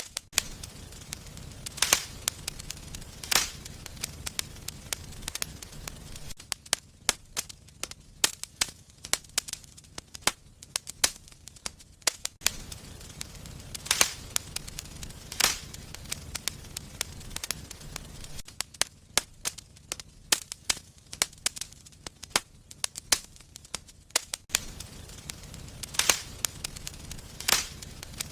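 Wood fire burning in a fireplace, crackling with sharp, irregular pops over a soft low rumble of flames.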